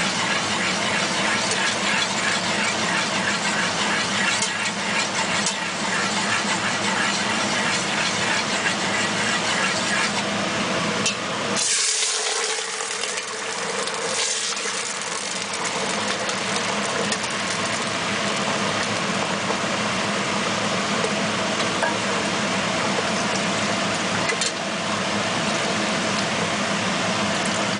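Rock sugar bubbling and sizzling in a hot pot as it cooks down to caramel colour, over a steady mechanical hum. About twelve seconds in there is a brief louder hiss.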